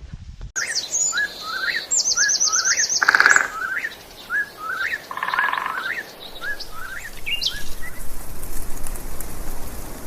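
Wild birds singing and calling: repeated short rising chirps, a rapid high-pitched trill about two seconds in, and a brief harsh call around three seconds in.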